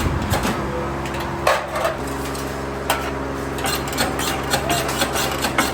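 Steady machine hum with several sharp knocks and taps over it, the loudest about one and a half and three seconds in.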